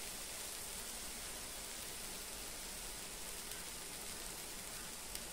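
Milk-soaked bread slices frying in ghee in a pan: a steady, gentle sizzle, with a small click near the end.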